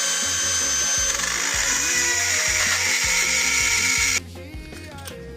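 Electric drill with a very small bit drilling into a metal ignition lock cylinder, running with a steady high whine, then stopping about four seconds in.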